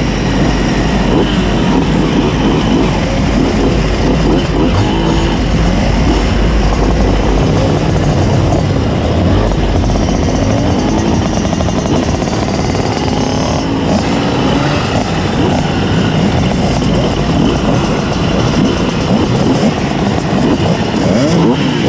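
Tuned 90 cc reed-valve two-stroke Simson S51 moped engines running and revving on the move, pitch rising and falling continuously as several mopeds ride together.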